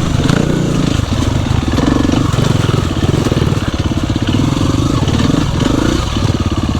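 Dirt bike engine running hard on a trail, the throttle opening and easing off several times.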